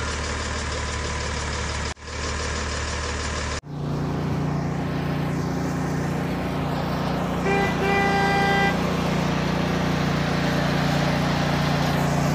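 Vehicle engine sound running steadily, cutting abruptly about three and a half seconds in to a lower, steady truck engine hum. A truck horn honks twice near the middle, a short toot then a longer one.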